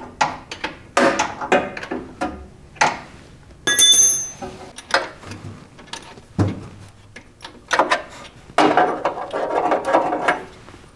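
Hand wrench turning an 11/16-inch (non-metric) bolt on a VW Beetle engine: a run of irregular metallic clicks and knocks, with a brief ringing metal clink about four seconds in.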